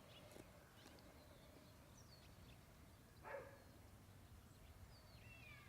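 Near silence, with a few faint, high, falling chirps and one brief faint call about three seconds in.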